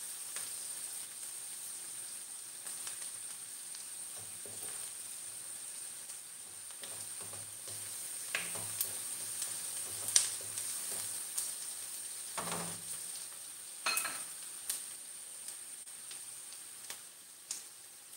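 Chopped onion and garlic sizzling steadily in hot oil in a pan, stirred with a wooden spatula. A few sharp knocks of the spatula against the pan come in the second half.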